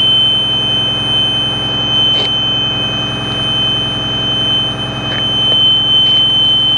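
School bus emergency-exit door buzzer sounding one steady, unbroken high tone, set off because the rear emergency door is open. Under it the bus's Cummins ISB diesel engine idles with a steady low hum.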